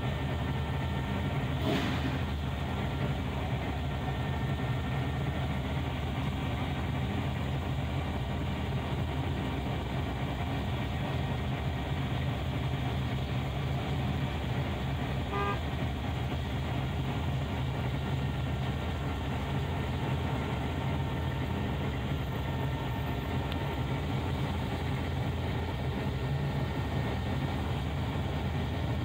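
Street rod's engine idling steadily, heard from inside the cabin. A brief knock about two seconds in, and a short car-horn toot about halfway through.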